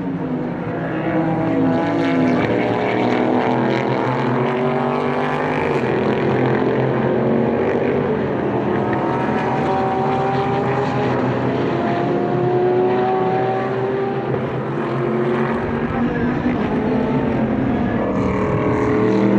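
Several GT race car engines running together, their pitches rising and falling as they rev, with no single car standing out.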